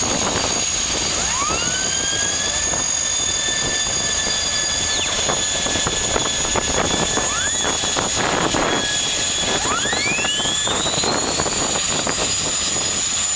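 Jet-engine race boat's turbine running with a high whine that climbs in pitch about a second in and holds, then climbs again toward the end as the engine spools up.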